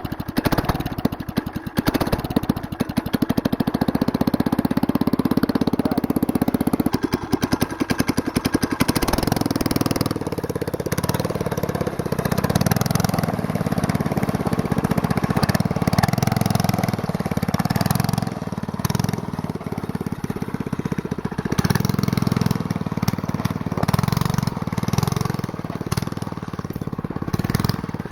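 Small four-horsepower single-cylinder go-kart engine with a straight-pipe exhaust running loud. For about the first ten seconds it fires in distinct, rapid pulses at a slow, lumpy idle on half choke, because it runs lean. After that it runs faster and steadier.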